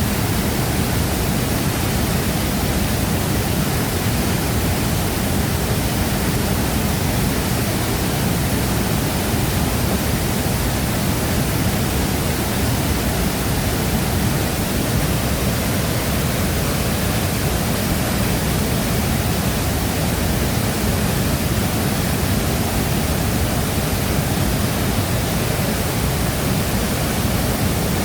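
Steady roar of a large waterfall: water falling and crashing into the plunge pool, heaviest in the low end, unbroken and unchanging.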